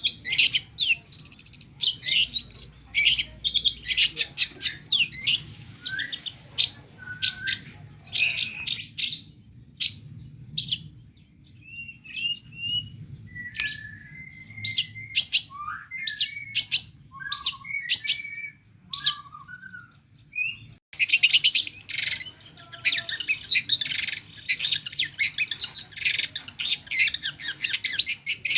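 Long-tailed shrike singing a fast, chattering song packed with mimicked calls of other birds. Sharp rapid notes give way to softer whistled phrases in the middle, then a dense, very fast run of chatter near the end.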